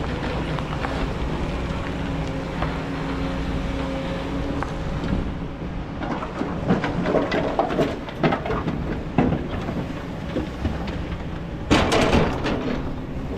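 Kobelco excavator's diesel engine running steadily, with irregular knocks and scraping of the bucket working sand from about halfway through, and a loud harsh scrape near the end.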